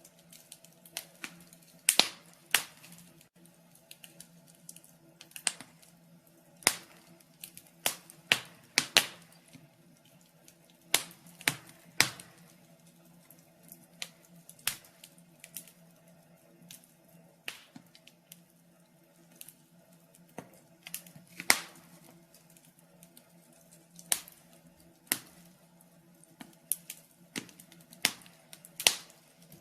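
Wood fire crackling in a fireplace: irregular sharp pops and snaps of burning logs, some much louder than the rest, over a faint steady hum.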